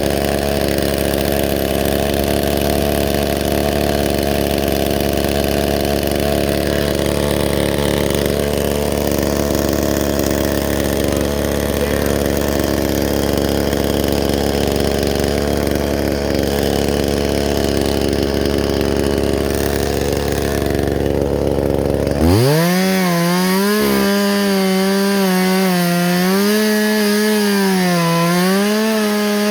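Chainsaw running steadily at a lower pitch. About 22 seconds in, the engine note jumps up sharply to a high rev that wavers up and down.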